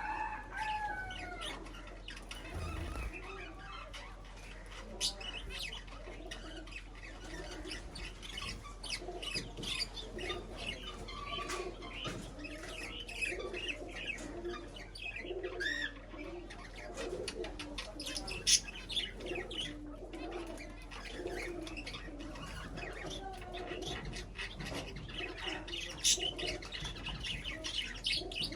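A group of birds chirping and calling continuously, with frequent wing flutters and many short clicks. There is a falling call about a second in.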